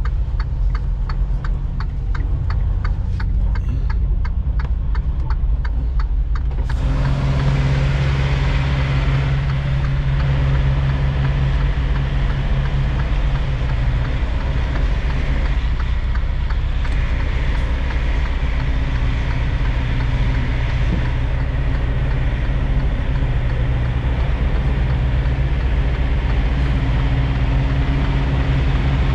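Freightliner semi-truck's diesel engine idling with a faint regular ticking, then running up louder about seven seconds in and holding as the tractor moves to couple to a trailer.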